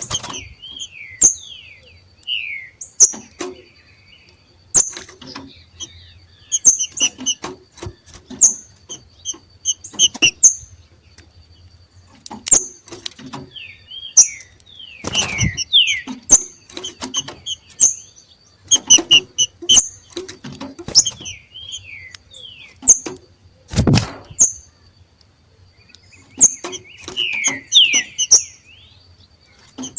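Two green-winged saltators (trinca-ferro) giving their 'macheado' calls: many short, sharp, clipped notes and quick falling slurs, repeated irregularly, with scattered clicks and a dull thump about three quarters of the way in.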